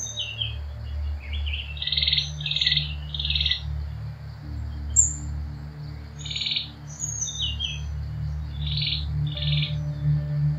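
Birds calling: short trilled chirps, mostly in runs of two or three, mixed with thin high whistled notes, over a low steady drone.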